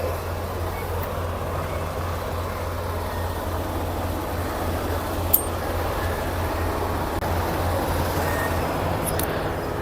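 Semi truck's engine running with a steady low drone, and a single sharp click about five seconds in.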